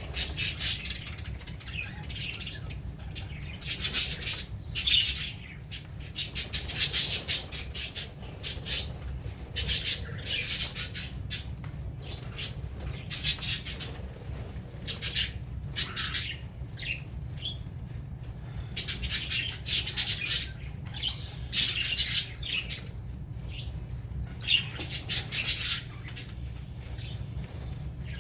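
A flock of budgerigars chattering and squawking in short, harsh, high-pitched calls that come in bunches, over a steady low hum.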